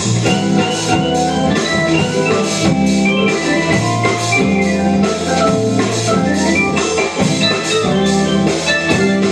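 Instrumental band music: an organ holding chords over a repeating bass line and a steady drum-kit beat.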